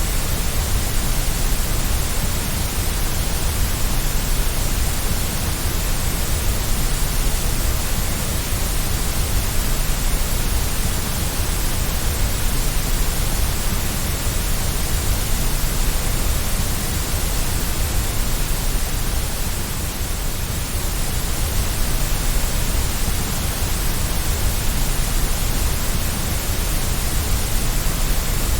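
Steady white-noise track for sleep: an even, unbroken hiss that is heavier in the low end.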